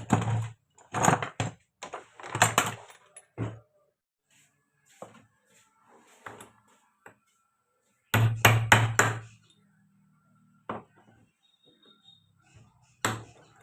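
Hammer blows on the metal parts of an angle grinder being dismantled for a bearing change: several strikes at the start, a quick run of four about eight seconds in, then single blows later.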